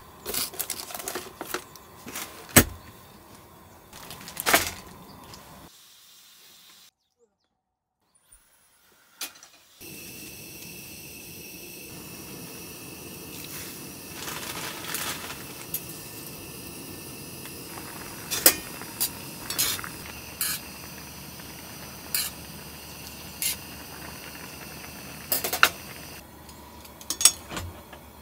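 Pad thai frying in a pan: a steady hiss with sharp clicks and knocks of utensils. The sound drops to near silence for a few seconds about six seconds in, then the hiss comes back louder.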